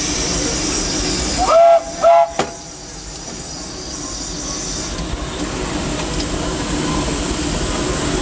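Steam locomotive cab noise with a steady steam hiss, broken about a second and a half in by two short, loud blasts of the steam whistle. After the blasts the running noise drops, then builds back up gradually.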